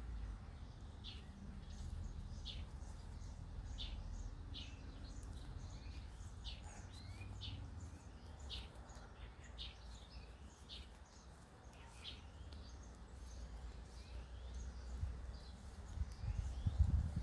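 Small birds chirping, short high calls repeating every second or so, over a low rumble of outdoor background noise, with a few louder low bumps near the end.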